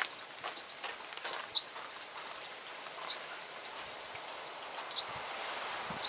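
A small bird giving a short, sharp, rising chirp three times, one every one and a half to two seconds, over a steady faint outdoor hiss. A few light clicks come in the first second and a half.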